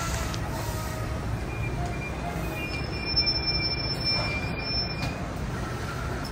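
Passenger train pulling into a station with a steady rumble; a high-pitched squeal sets in about a second and a half in and holds for nearly four seconds as the train slows to a stop.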